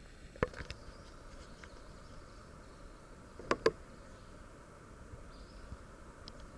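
A few sharp knocks over a quiet outdoor background: one about half a second in, and a quick, louder double knock about three and a half seconds in.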